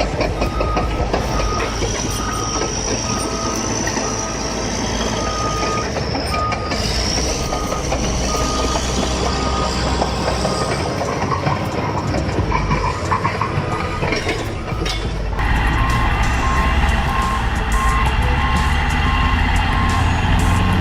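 Heavy vehicle's backup alarm beeping about once a second over running engine and machinery noise. About fifteen seconds in, the engine noise gets louder and a similar alarm beeps about twice as fast.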